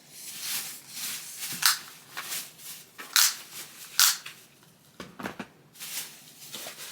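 Plastic crinkling and rustling in irregular bursts as shopping items are handled, with a few sharper crackles about one and a half, three and four seconds in.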